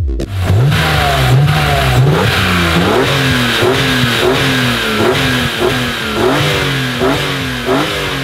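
High-performance car engine revving hard: the note climbs at first, then rises and falls back about twice a second in quick repeated blips.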